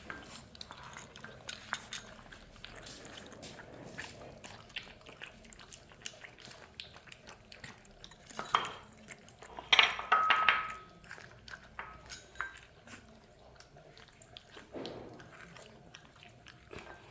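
Saint Bernard puppies lapping formula milk from bowls: a steady run of small wet licking clicks, with the bowls clanking a few times, loudest about eight and ten seconds in.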